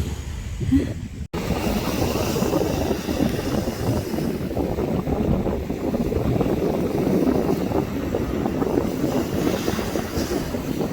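Wind buffeting the microphone on a beach: a loud, uneven rumbling noise. It breaks off for an instant about a second in, then carries on.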